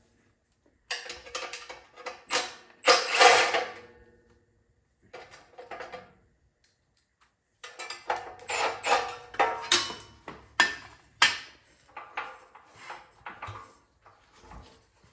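Hand tools and metal parts clinking, knocking and rattling as the recoil starter (pull cord assembly) is taken off a small generator engine, with a few short ringing metallic clinks and a brief quiet pause partway through.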